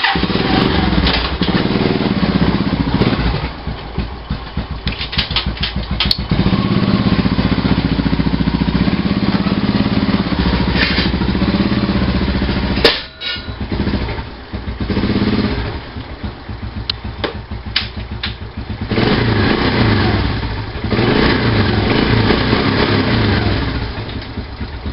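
1988 Honda Fourtrax 200 ATV's single-cylinder engine running just after a cold start. Its level rises and falls, with a sharp pop about halfway through and a brief dip after it; the owner says she purrs.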